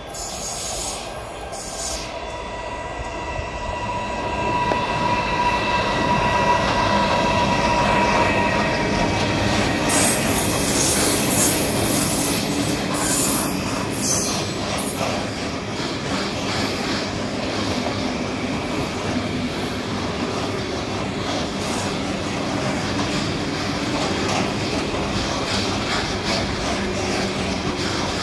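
Electric passenger train running through the station platform, with high steady squealing tones in the first few seconds. The running noise grows louder and is loudest around a third of the way in, then holds steady.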